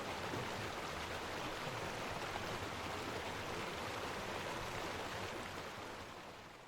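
Steady rush of water from a waterfall and its stream, fading out near the end.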